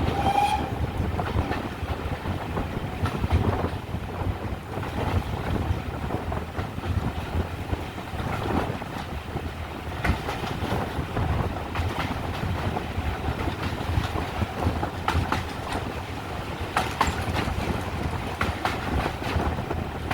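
Passenger train coaches running along the line: a steady rumble of wheels on rail with irregular clicks over rail joints. A brief pitched tone sounds right at the start.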